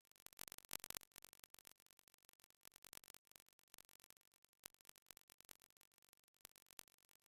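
Near silence with faint, irregular crackling clicks, a little louder about a second in.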